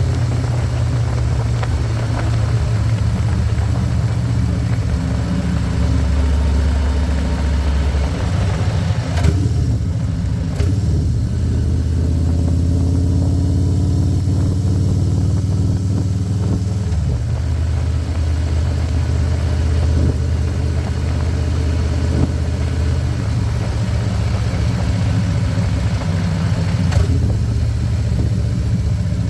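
Harley-Davidson Electra Glide's Milwaukee-Eight V-twin engine running under way, its pitch changing with throttle and gears, with the high road and wind noise easing off for several seconds near the middle.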